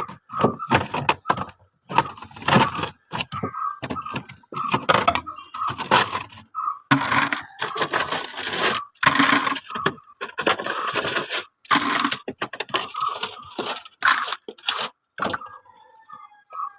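Built-up ice being chipped and broken out of a freezer compartment: many quick, irregular cracks and knocks, thinning out near the end.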